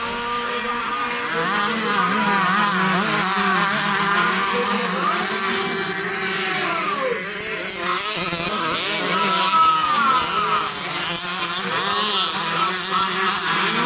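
Several 125cc motocross bikes racing, their engines revving up and down with many overlapping rising and falling pitches.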